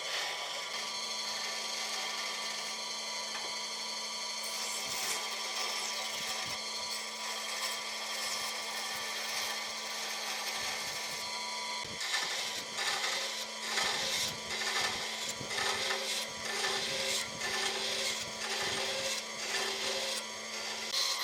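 A small electric power tool running steadily on wood. From about halfway through, its sound swells and fades about once a second.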